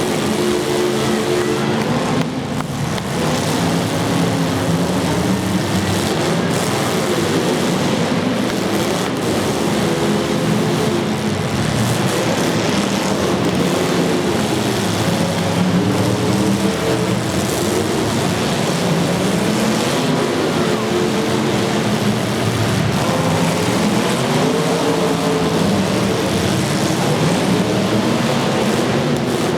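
Several demolition derby car engines revving up and down over one another, their pitch rising and falling again and again.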